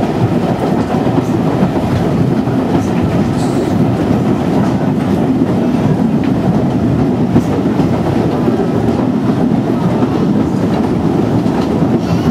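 Heritage steam railway carriage running along the line, heard from inside the carriage: a steady, loud noise of the wheels rolling on the track.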